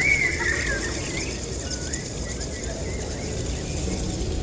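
Small birds chirping in a quick run of squeaky, gliding chirps in the first second, then a few fainter scattered chirps, over a steady hiss.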